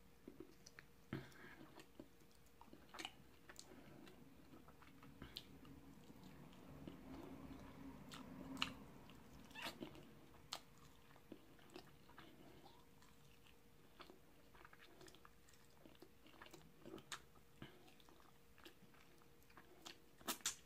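Faint mouth sounds of someone eating baked chicken off the bone with his fingers: soft chewing and lip smacks, with scattered small clicks, a few of them louder.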